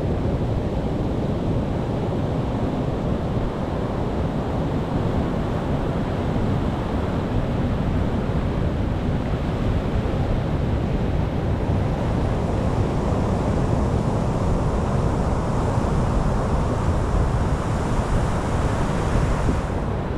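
Ocean surf breaking and washing ashore, a steady rush with heavy low rumble and wind buffeting the microphone. About twelve seconds in, a brighter hiss of water swells and holds until it stops abruptly near the end.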